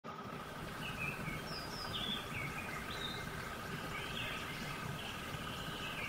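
Small birds chirping, with short whistles and falling chirps coming several times a second over a steady hum and low background noise.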